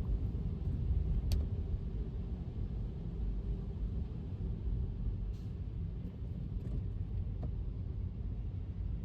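Steady low road rumble of an electric car driving on a wet road, mostly tyre and road noise. There is one sharp tick about a second in and a few fainter ticks later.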